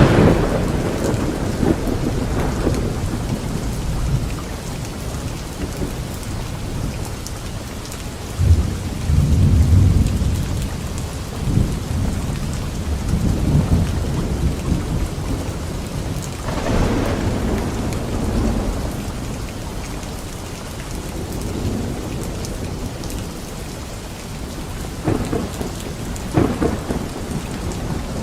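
Thunderstorm: steady rain with repeated rolls of thunder, the loudest clap at the start and further rumbles swelling and fading several times.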